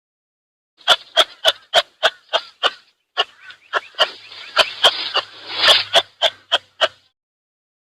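An animal giving a fast series of short repeated calls, about three a second, pausing briefly near the middle.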